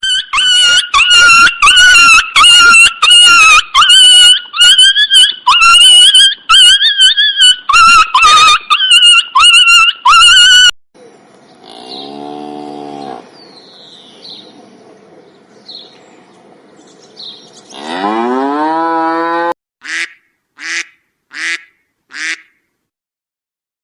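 A sequence of animal calls: for about ten seconds, loud, rapidly repeated high-pitched calls, then cattle mooing, one long moo rising near the end, and then short repeated duck quacks.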